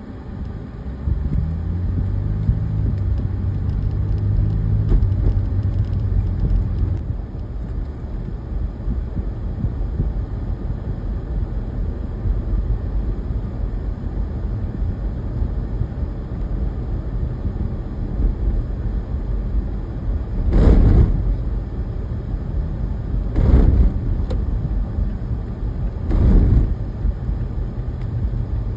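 A heavy vehicle engine running with a steady low rumble, with three short, loud bursts of noise a few seconds apart in the last third.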